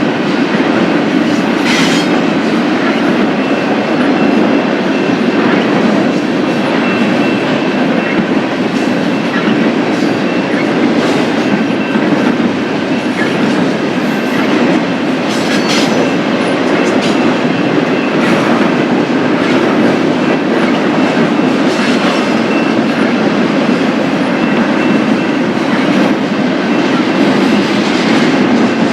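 Freight train cars rolling past on jointed or welded track: a steady loud rumble of steel wheels on rail, with scattered sharp clicks and a faint steady high tone from the wheels.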